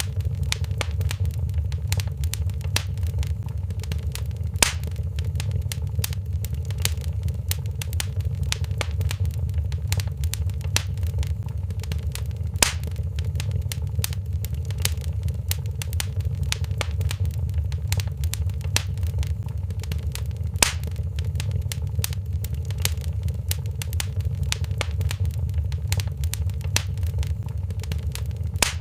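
Wood fire crackling in a fireplace: a dense run of small snaps and pops over a steady low rumble. Three louder pops stand out, evenly spaced about eight seconds apart.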